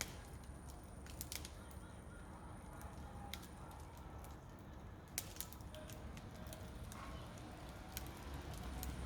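Wood fire burning, with scattered sharp crackles and pops every second or two.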